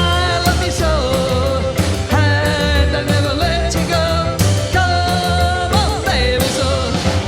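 Live rockabilly band playing a fast number, with double bass, drums and piano under a singer's long held notes that come in repeated phrases.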